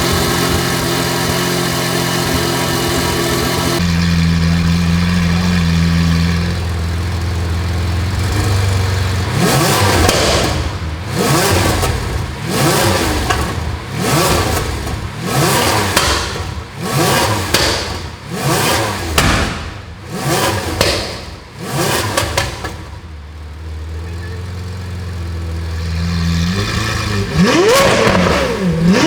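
Lamborghini Aventador LP720-4 50th Anniversario's V12 running through a Brilliant aftermarket exhaust, just after its first start. It holds a high idle that drops to a lower idle about four seconds in. Then comes a string of about a dozen quick throttle blips, roughly one a second, each rising and falling in pitch. It settles back to idle and revs again near the end.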